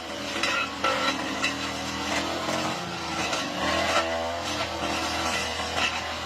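Lawn mower engine running steadily under load while cutting thick overgrown grass, with frequent sharp clicks and snaps of stems and debris striking the blade.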